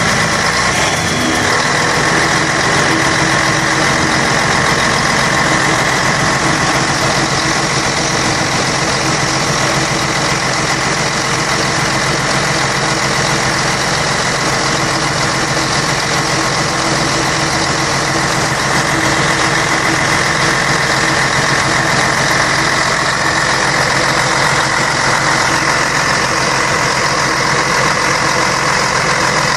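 Scania K113 bus's six-cylinder diesel engine running at a steady, even speed, with no revving.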